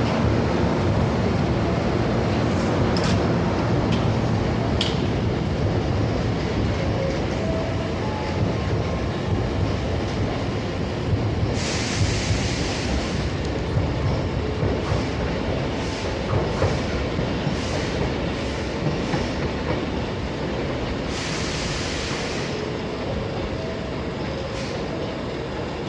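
Hankyu 1000 series electric train running on the rails, its wheels clicking over rail joints in a steady rhythm. Two bursts of hiss come about halfway through and again later, and the rumble slowly grows quieter toward the end.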